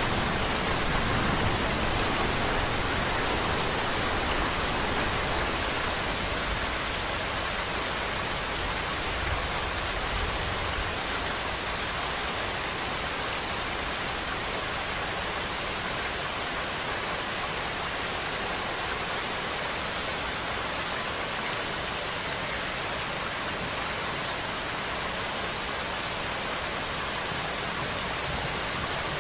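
Steady, dense rainfall hissing evenly on a surface. A deeper low rumble sits under it at the start and fades away over the first ten seconds or so.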